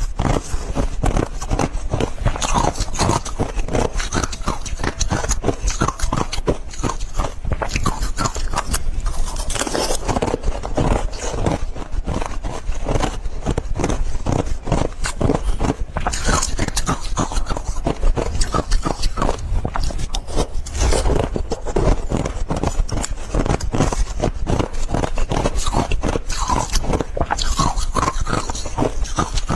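Ice being bitten and chewed close to the microphone: a dense run of crisp crunches, several a second.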